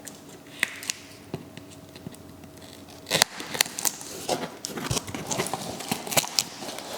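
Packaging being opened and handled by hand: scattered clicks and rustles of cardboard and plastic, sharpest a little past three seconds in and busiest over the following few seconds.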